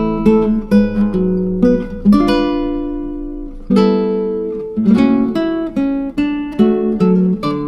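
Acoustic guitar music: chords plucked and strummed, each ringing out and dying away before the next.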